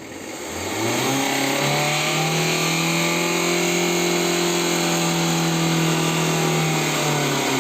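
Tata Indica diesel engine revved up from idle and held at high revs, its pitch rising over the first second or so, staying steady, then easing off near the end.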